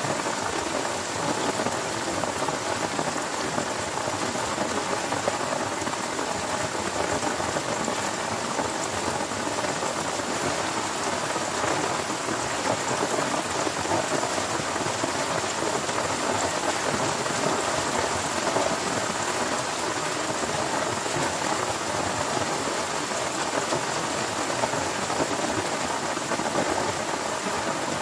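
Heavy rain falling steadily: a dense, even hiss of many drops that holds at the same level throughout.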